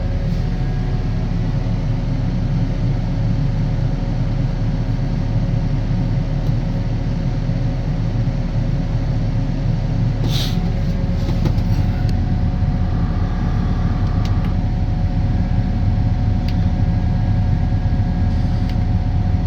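New Holland E60C excavator's Yanmar four-cylinder diesel running steadily at idle, heard from inside the cab. A short click about ten seconds in.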